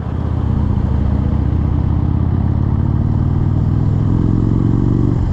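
Motorcycle engine running under way, its pitch climbing slowly as it pulls, then dropping about five seconds in, as at a gear change.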